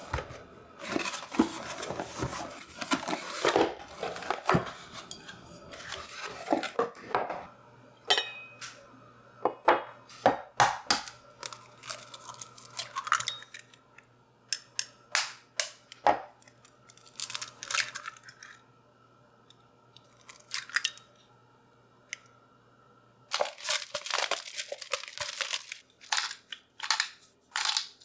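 Crinkling and tearing sounds with scattered sharp clicks and knocks. A steady low hum runs under them from about a quarter of the way in until past the middle.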